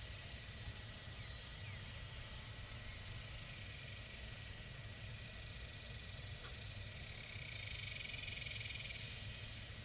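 Steady outdoor background noise: a low rumble under a high hiss that swells and fades every few seconds.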